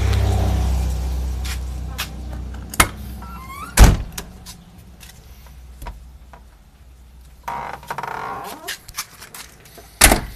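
A car's low rumble fades away over the first couple of seconds. Then come several sharp thunks and knocks, the loudest about four seconds in and another near the end, with a brief rising squeak between them.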